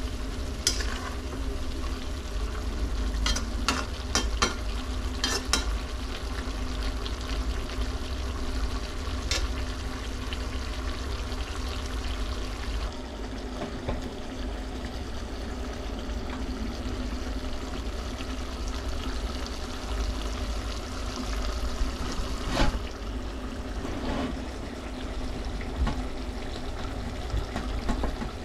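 Goat liver pieces sizzling as they fry in oil in a pan over a steady low hum, with their moisture cooking off. A spoon stirs them and clinks against the pan now and then, several times in the first few seconds and a few more times near the end.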